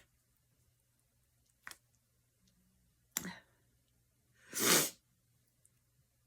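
Quiet room with two small clicks, one about a second and a half in and one about halfway through, then a short rush of noise, under half a second long, a little past the middle.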